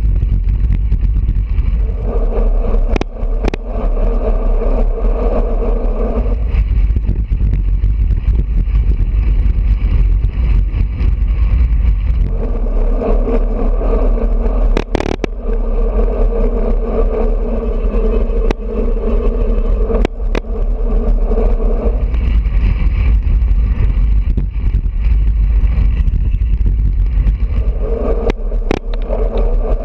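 Wind buffeting a GoPro's microphone on a moving road bicycle, with a constant low rumble of road noise. A steady hum comes and goes in long stretches, and there are a few sharp clicks.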